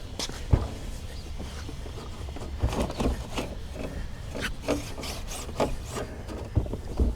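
Irregular rubbing and scuffing strokes, with a dull thump about half a second in and another near the end.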